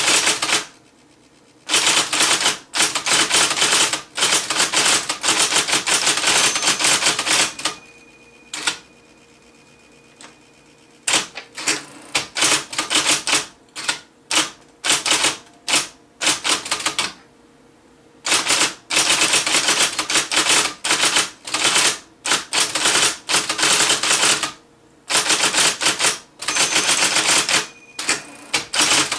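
IBM Selectric III electric typewriter being typed on: fast runs of typeball strikes broken by short pauses, with the steady hum of its running motor heard in the gaps.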